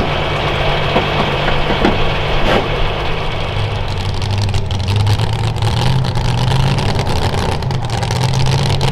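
Pulling tractor's engine running at low revs, its pitch stepping up a little about halfway through and then holding steady.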